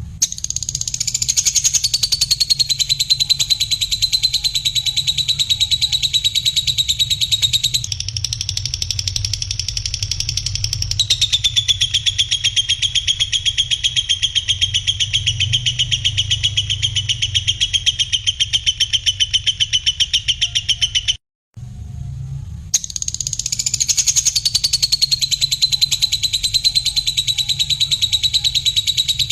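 Recorded songbird trills used as a training track for cage birds: long, very fast runs of repeated high notes, each run starting a little higher and settling lower, with a brief break about 21 seconds in. A steady low hum runs underneath.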